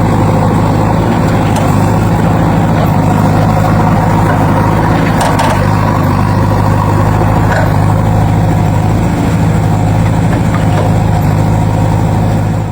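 Heavy diesel engine idling steadily, like a tractor or backhoe loader, with a constant low hum that does not rev or change.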